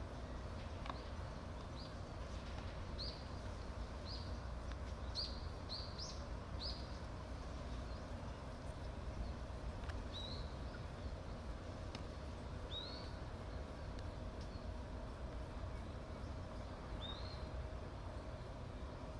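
A bird's short, high chirps, each rising then dropping, about one a second at first and then only every few seconds, over a steady low rumble of background noise.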